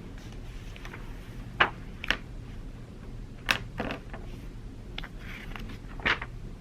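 Quiet library ambience: a steady low hum with about half a dozen sharp clicks and taps scattered through it, from small objects handled on a study desk.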